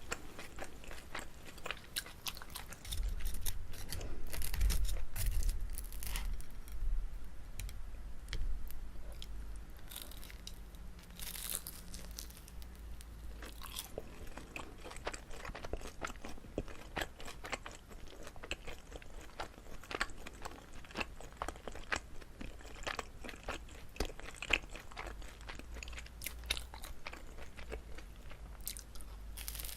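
Close-miked chewing and biting of a chewy rice cake filled with gondre greens, with many sharp, sticky mouth clicks. It is louder for a few seconds near the start.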